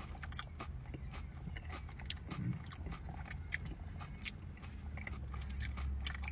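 A person chewing a mouthful of crunchy Doritos nacho chips, with irregular small crunches.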